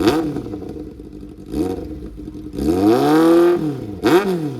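Kawasaki inline-four sportbike engine on a freshly fitted full exhaust system with the catalytic converter removed, revved from idle in throttle blips. There are three short blips, and between the second and third a longer rev is held for about a second.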